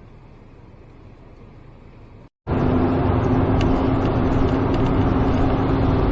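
Steady noise of a car in motion, with a constant low hum over a rumble of road noise, cutting in abruptly a little over two seconds in after a faint hiss.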